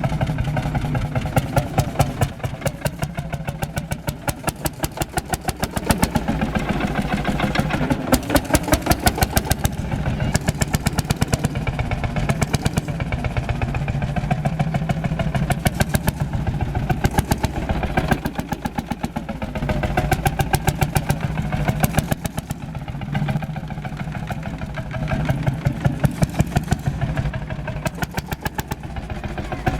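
Ursus C-451 tractor's single-cylinder two-stroke hot-bulb engine running, a rapid even beat of firing strokes that grows louder in stretches every few seconds.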